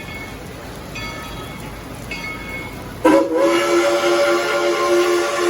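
Tweetsie Railroad No. 190 steam locomotive arriving: its bell rings about once a second over a steady hiss, then about three seconds in its steam whistle blows, loud and held, sounding several notes at once.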